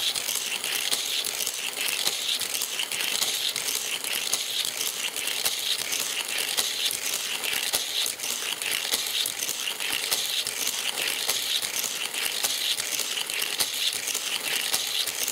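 Hot Wheels die-cast toy cars rolling on plastic track: a steady, dense crackling rattle of many small clicks.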